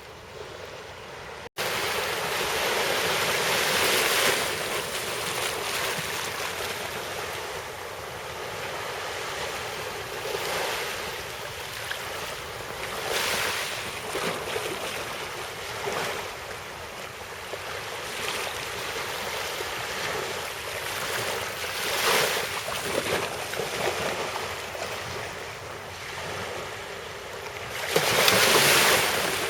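Sea waves washing ashore, swelling and falling back every few seconds, with the loudest wave near the end. The sound drops out briefly about a second and a half in, then resumes louder.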